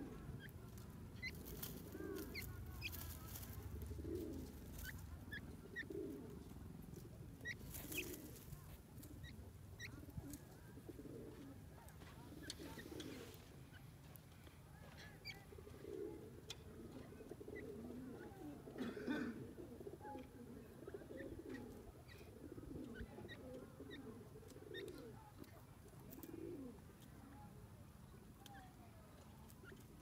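Soft, low bird calls repeated every second or two, with scattered faint ticks and chirps.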